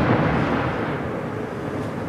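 Rolling echo of an aerial fireworks shell's burst, a low rumble that slowly dies away.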